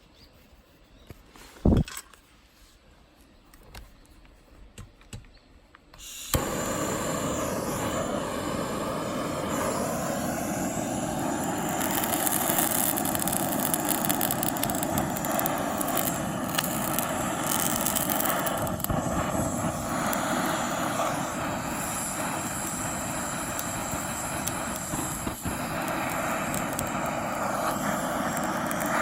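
A sharp knock and a few small clicks, then a loud, steady rushing hiss that starts suddenly about six seconds in and keeps going.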